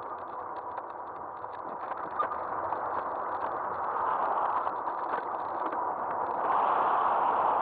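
Riding noise from an Aostirmotor S17 e-bike picked up by a camera on its front end: a steady rush of wind and tyres on pavement with light ticking and rattling. The rush gets louder about six and a half seconds in, as with rising speed.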